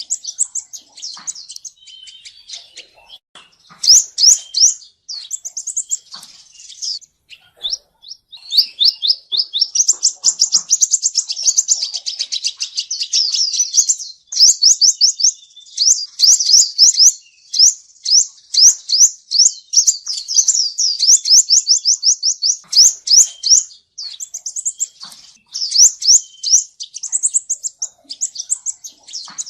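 Male sunbird singing high, rapid trills and chirps, with a long fast trill run through the middle and short pauses between phrases. This is a recorded song of the kind used as a lure for trapping.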